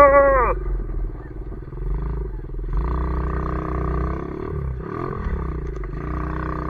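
Pit bike engine revving. A sharp rev right at the start drops away quickly, then the engine runs at a steady throttle, rising and falling in pitch a couple of times around the middle.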